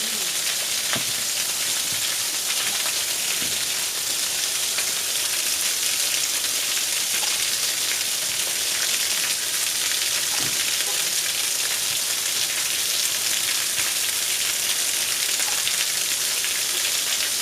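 Waterfall running: a steady hiss of falling, splashing water.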